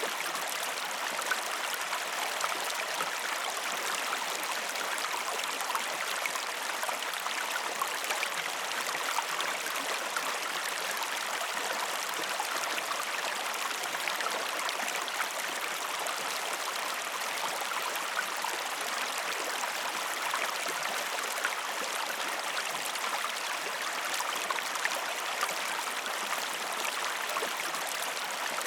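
River water flowing steadily: an even rush of running water with fine splashing flecks and no change in level.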